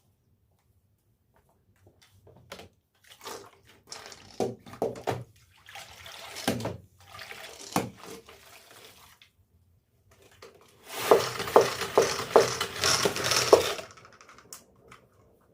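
Water running and splashing in a sink or basin with light knocks, in several bursts; the loudest and longest comes about eleven seconds in and lasts some three seconds.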